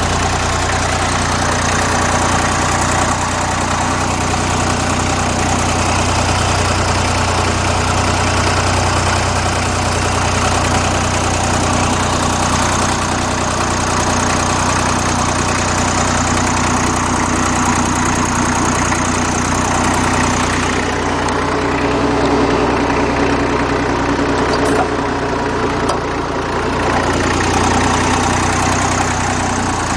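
Old Fordson Dexta tractor's 3-cylinder diesel engine idling steadily shortly after a cold start, at a slow idle of about 400 rpm. The owner hears a worn water pump bearing roaring while it runs.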